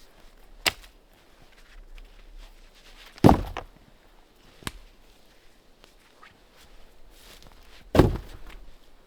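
Two heavy thuds about four and a half seconds apart, each with a short tail, with a sharp knock before the first and another between them.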